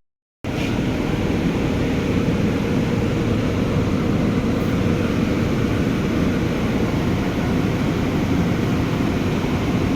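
Steady low rumbling background noise with no distinct events, cut off to silence for a moment right at the start.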